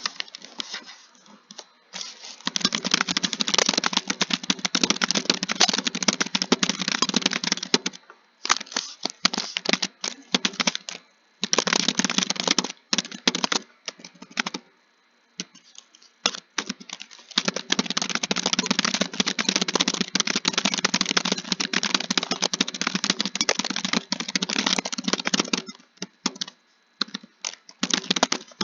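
Keyboard typing fast: long runs of rapid keystrokes broken by short pauses and a few scattered single key presses.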